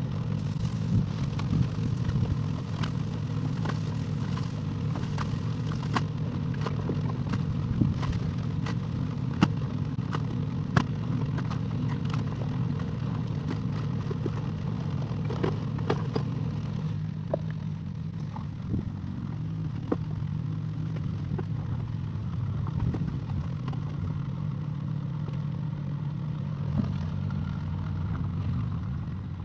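Excavator engine running steadily, with frequent sharp clanks and knocks from the machine at work, most of them in the first half.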